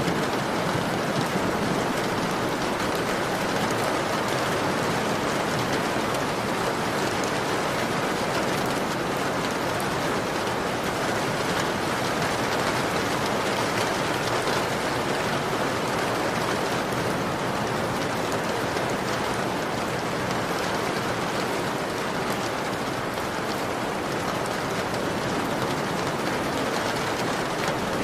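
Heavy rain pelting a window pane, a steady dense patter and hiss that does not let up.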